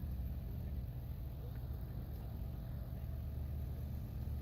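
Heavy-haul truck engine running with a steady low rumble as the rig moves at a crawl.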